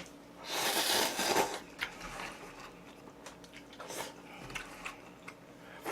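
Someone eating Wang Ttukkeong cup ramen noodles: a noisy slurp about half a second in, lasting about a second, then quiet chewing with small clicks.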